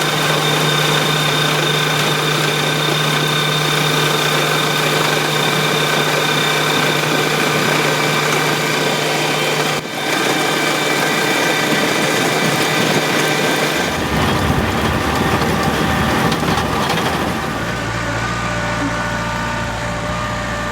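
Farm machinery engine running steadily, a constant hum with a high whine over it. The sound breaks briefly about ten seconds in and changes abruptly about fourteen and eighteen seconds in.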